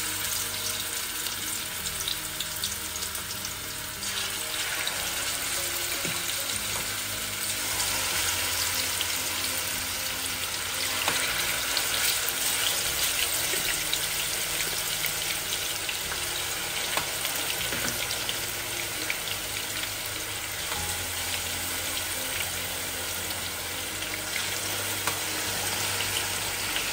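Marinated chicken pieces deep-frying in hot sunflower oil in a frying pan on high heat: a dense, steady sizzle full of small crackles. The sizzle grows louder in steps, about four and eleven seconds in, as more pieces go into the oil.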